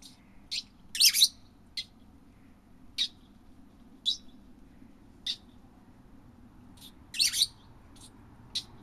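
Pet lovebird giving short, sharp high-pitched chirps, about ten of them spaced out, with two louder, longer calls about a second in and again near the end.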